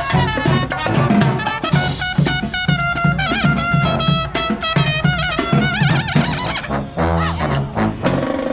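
Live brass band playing an upbeat tune, trumpets and trombones carrying the melody over a steady drum beat.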